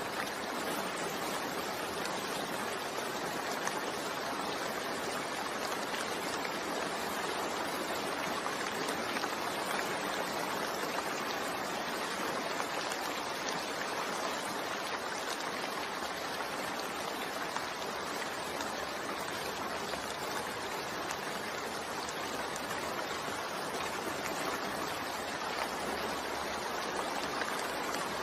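Steady rain falling, an even hiss of drops without pauses or distinct events.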